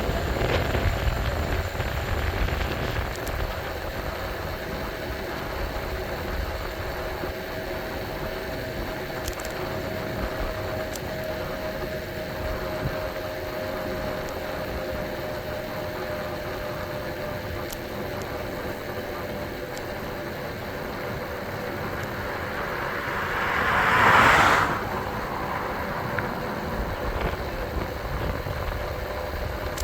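Riding sounds on an e-bike: a steady thin whine, typical of the electric motor, over wind and road rumble. About 24 seconds in, a vehicle passes close, swelling and fading over a second or two.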